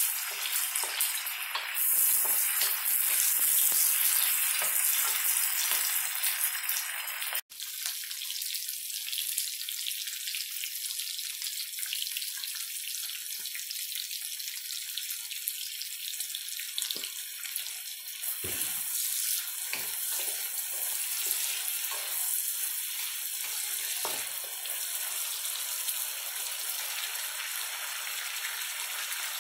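Anchovies, tofu, tomatoes and peppers sizzling in hot oil in a steel wok during a stir-fry, a steady hiss. About seven seconds in it cuts abruptly to a quieter, thinner sizzle with a few scattered knocks.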